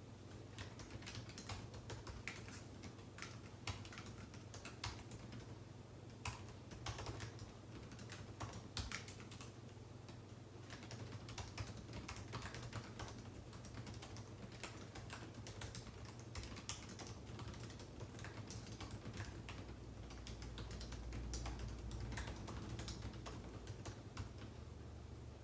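Typing on a computer keyboard: a quick, irregular run of key clicks over a steady low hum. A low rumble swells about twenty seconds in.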